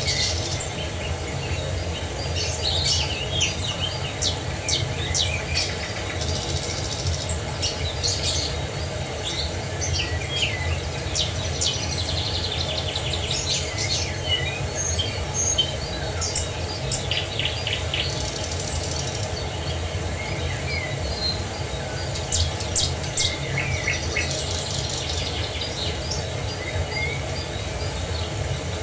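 Many small birds chirping and trilling, one call after another, over a steady rush of falling water with a low rumble.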